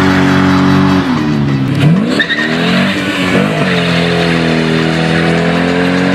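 Car engine held at high revs with tyre-skid noise, as in a burnout. The revs drop and swoop back up about two seconds in, then hold steady again.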